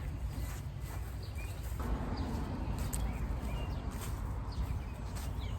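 Footsteps on a trail, about one a second, over a steady low rumble of wind on the microphone, with a few faint bird chirps.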